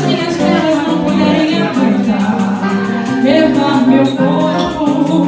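Live samba band playing, with steady fast percussion and held instrument or vocal notes.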